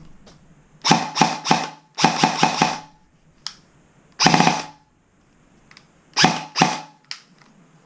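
Airsoft electric gun (AEG) with its stock motor on a 9.6 V battery, firing single shots and short bursts, each with the motor and gearbox whine under the rapid cycling. There are four groups of firing with quiet pauses between them.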